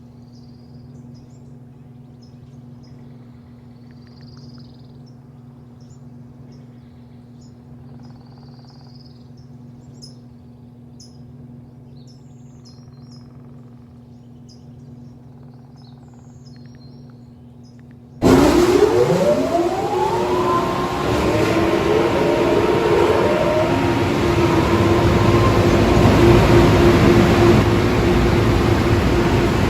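Birds chirping over a low steady hum. About two-thirds of the way through, car wash machinery starts abruptly: motors spin up with rising whines that level off, under a loud rushing noise.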